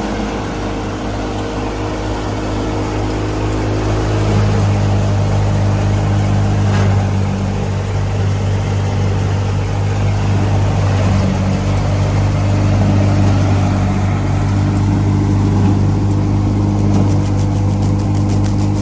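Diesel engine of a Clayson 8080 combine harvester running steadily while working in wheat, a deep even hum that gets a little louder about four seconds in.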